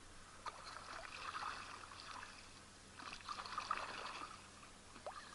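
Faint water trickling and splashing around a canoe, coming in two swells a couple of seconds each.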